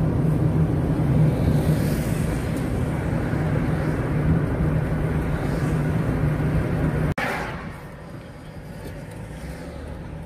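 Steady engine and road noise of a moving car, with a low, even hum. About seven seconds in there is a sharp click and the noise drops to a quieter hum.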